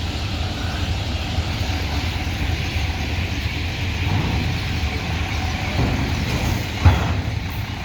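A heavy road vehicle's engine running steadily with a low rumble. A single sharp bang comes about seven seconds in.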